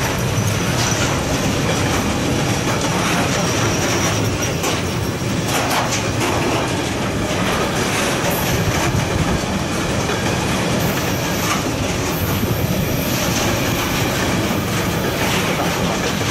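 Intermodal freight train's wagons rolling past, wheels clattering steadily over rail joints, with a faint high wheel squeal in the first few seconds.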